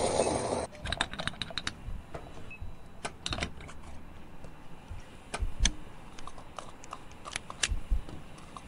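A steady hiss cuts off suddenly under a second in, followed by scattered light clicks and taps of fingers handling thin wire leads and small plastic and wooden parts of a toy model.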